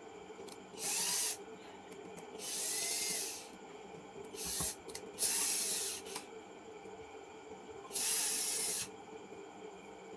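An aerosol can sprayed in five short hissing bursts, each under a second long, spaced unevenly.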